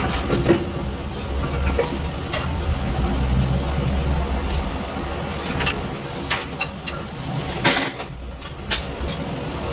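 A car engine idling steadily, with scattered short clicks and knocks over it.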